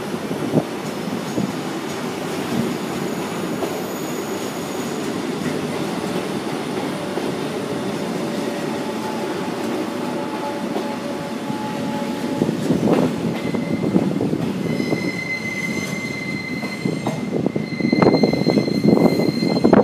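Ganz Mavag electric multiple unit rolling slowly over the rails with a steady rumble. In the second half, high steady wheel squeal sets in, and wheels clatter and knock over the rail joints near the end.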